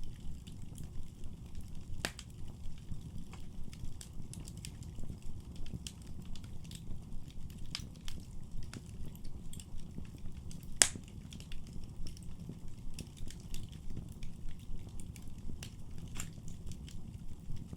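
Wood fire burning in a fireplace, crackling and popping over a steady low rumble of flames, with one loud pop about eleven seconds in.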